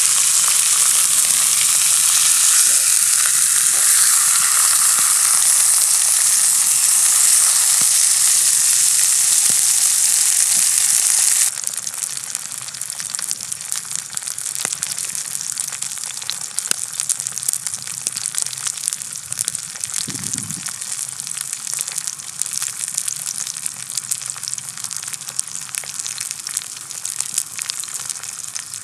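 Sirloin steak frying in an iron frying pan over a campfire: a loud, dense sizzle that drops suddenly, about eleven seconds in, to a quieter crackling sizzle full of small pops.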